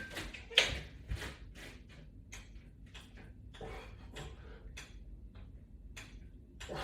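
A scatter of faint, irregular clicks and light knocks, about two or three a second, from resistance-band exercise gear (straps, clips and latch bar attachments) being moved and worked.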